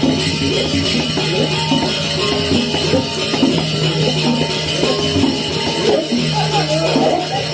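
Balinese gamelan music playing: many quick pitched notes over a steady low tone, with a dense high jangling shimmer above them.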